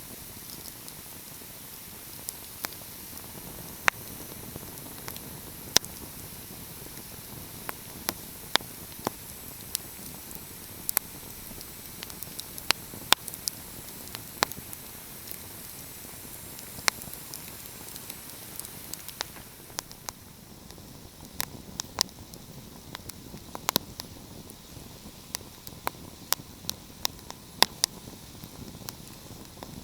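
Wood fire crackling: irregular sharp pops and snaps over a steady hiss. The hiss thins about two-thirds of the way through.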